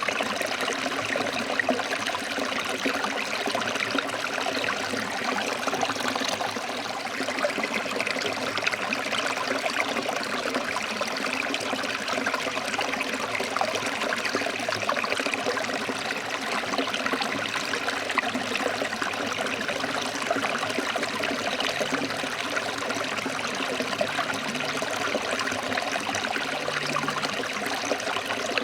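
Forest stream flowing over rocks: a steady rush of water with trickling and splashing.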